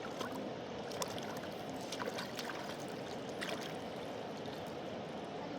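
A fast-flowing mountain river rushing steadily, with a few short sharp ticks on top.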